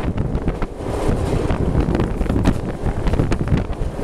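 Passenger train running along the track, a steady low rumble with scattered knocks and clatter from the wheels and rails, and heavy wind buffeting the microphone.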